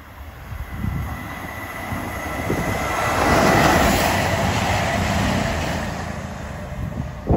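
CrossCountry Voyager diesel multiple unit passing through the station. The rumble of its wheels on the rails and its underfloor diesel engines grows to its loudest about halfway, with a thin high whine as it approaches, then fades as it draws away. A brief sharp knock comes at the very end.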